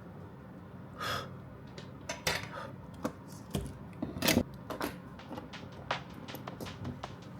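Small tools and watch parts clicking and tapping against a hard surface during a smartwatch battery replacement: many short, sharp clicks at irregular intervals, the loudest about four seconds in.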